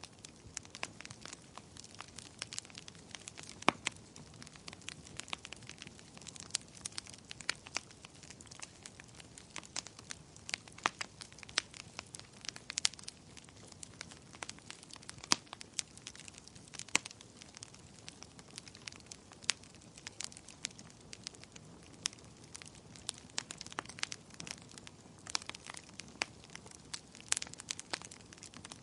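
Wood fire crackling in a fireplace, with irregular sharp pops and snaps, several a second, over a faint steady hiss.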